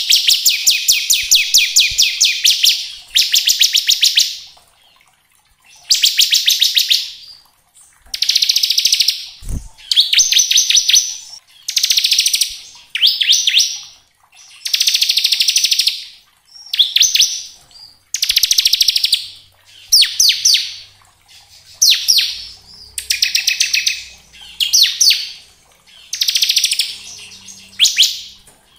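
Bar-winged prinia (ciblek) singing its 'ngebren' song: fast, rattling high trills repeated over and over. The first two trills are long and the rest are about a second each, coming roughly every one and a half seconds.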